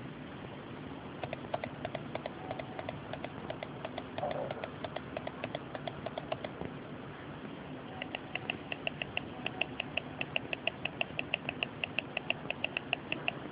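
Rapid, evenly spaced small mechanical clicks in two runs, about four a second and then about five a second, the second run sharper and higher-pitched, over a steady low hum.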